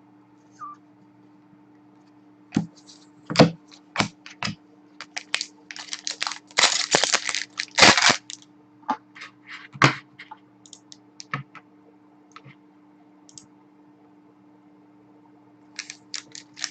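Irregular sharp clicks and short crinkling rustles, coming in a dense run for several seconds and again near the end: trading-card packs being torn open and cards handled. A faint steady electrical hum runs underneath.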